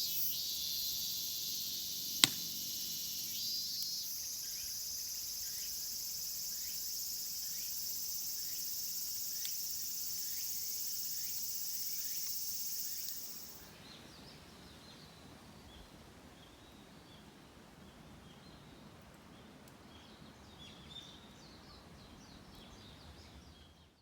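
Steady high-pitched chorus of insects shrilling in the forest, with one sharp click about two seconds in. About thirteen seconds in the chorus drops away, leaving a faint hiss with light, scattered high chirps.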